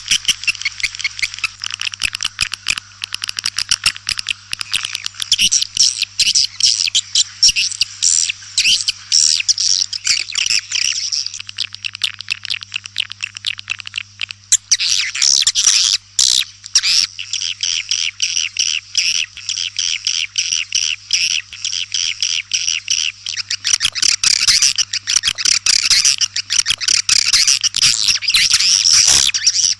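Swiftlets twittering: a dense, continuous chatter of rapid, high, overlapping chirps. This is the swiftlet call sound played to attract swiftlets.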